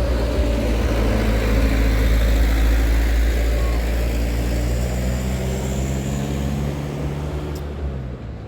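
Heavy diesel truck engine running steadily under load, slowly growing quieter toward the end.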